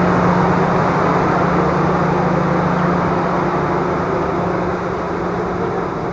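Diesel locomotive hauling a train backwards during shunting, its engine running steadily with a constant low hum, slowly getting quieter.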